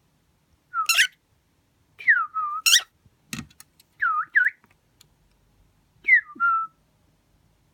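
Cockatiel whistling: several short swooping notes that dip and rise, in four bursts with gaps between them, mixed with a couple of harsh chirps.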